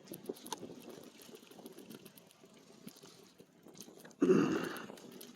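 Bicycle riding along a dirt trail: faint rattles and ticks, then a sudden loud noise about four seconds in that fades over about a second.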